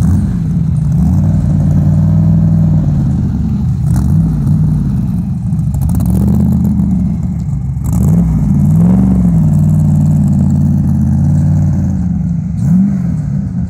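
Chevrolet LS7 7.0-litre V8 running, idling between several short revs that rise and fall in pitch.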